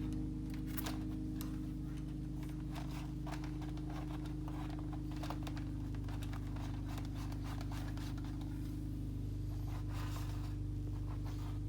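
Electrical wire being fed and pulled through drilled holes in a caravan panel: light irregular scraping and rustling, over a steady low hum.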